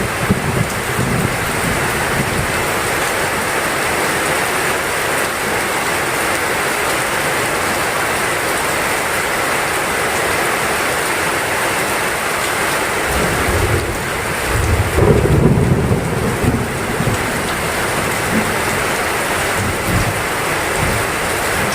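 Heavy rain pouring steadily, with a low roll of thunder rumbling up about two-thirds of the way through and then fading.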